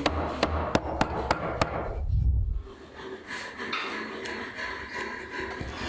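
A hand tool striking wood in quick, evenly spaced knocks, about three a second, which stop after about a second and a half; a low thud follows.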